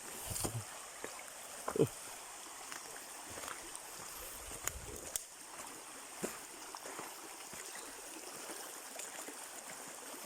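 Steady running water, like a stream, with a faint steady high tone and scattered short clicks and knocks, the loudest about two seconds in.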